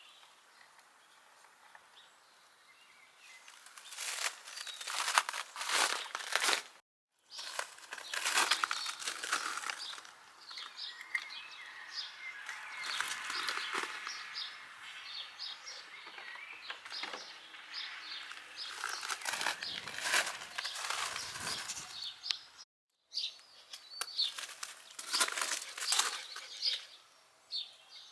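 Rustling and crinkling, in uneven clusters broken by two brief dropouts to silence, with faint bird chirps near the end.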